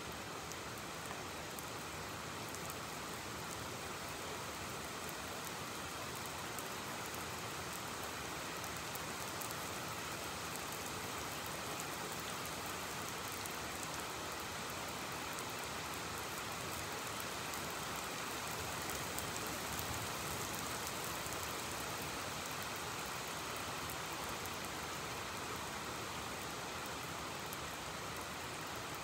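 Steady rain falling, an even hiss with fine drop ticks, swelling slightly about two-thirds of the way through; no thunder.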